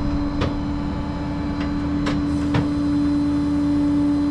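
A vehicle engine idling with a steady droning hum, with a few short clicks over it.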